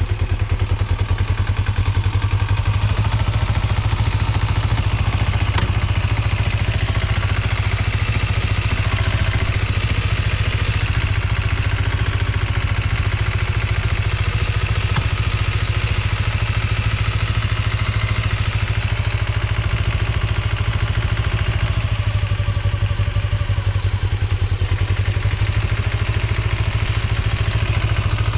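Kawasaki GPX250's liquid-cooled parallel-twin engine idling steadily at an even, unchanging speed after a cold start, with no unusual mechanical noise.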